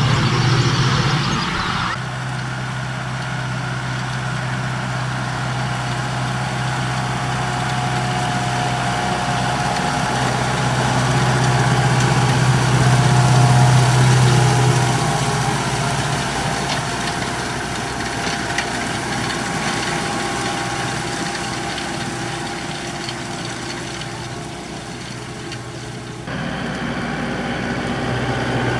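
Kubota tractor's diesel engine running steadily, its hum growing louder past the middle and then easing off. The sound changes abruptly about two seconds in and again near the end.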